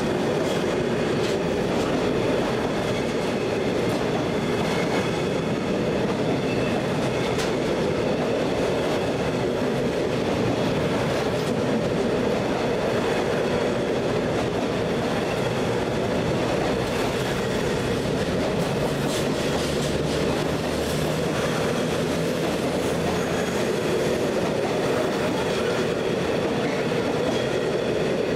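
Container freight train's wagons rolling past close by at steady speed: a continuous rumble and rattle of steel wheels on rail, with occasional faint clicks over the rail joints.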